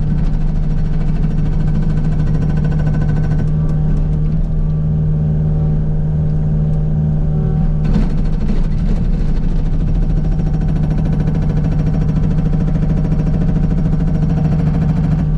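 Kubota U55 mini excavator's diesel engine running steadily at working revs while its Agrotk 680 hydraulic hammer breaks rock: a constant low drone with a dense, rapid rattle over it.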